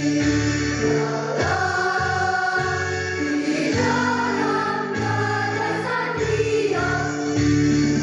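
School choir singing held notes, with steady low chords underneath that change every second or so.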